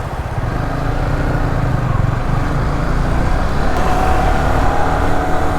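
Yamaha R15 V3's 155 cc single-cylinder engine running under way, heard under heavy wind buffeting on a helmet-mounted microphone. The engine pitch climbs a little about four seconds in.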